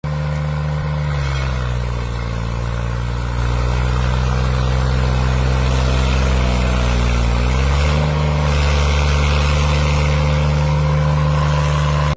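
An engine running steadily, its speed dropping slightly about two seconds in and picking up again around eight seconds, then cutting off suddenly at the end.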